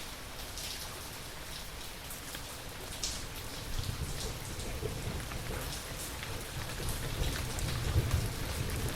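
Steady rain falling, with scattered drops ticking on a surface. From about four seconds in, a low rumble of thunder builds and swells near the end.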